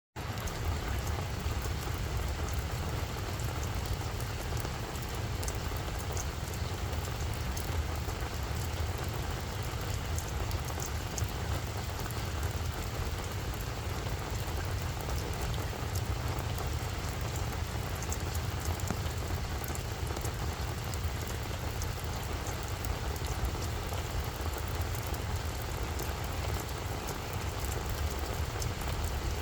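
Steady rain falling, with a dense patter of fine drops over a continuous low rumble.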